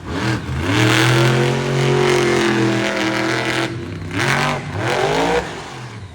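Monster truck's supercharged V8 revving hard: a long rev that climbs and holds for a few seconds, then a second, shorter rev rising in pitch about four seconds in, before the engine drops off near the end.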